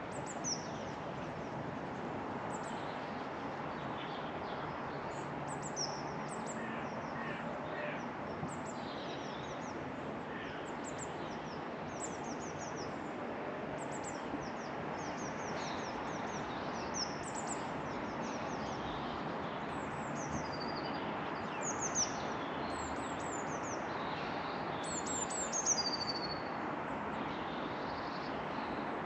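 Small garden birds chirping and calling repeatedly in short, high notes, over a steady background hiss of outdoor noise.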